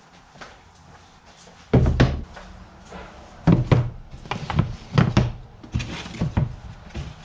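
An irregular series of knocks and thumps, about a dozen, starting about two seconds in.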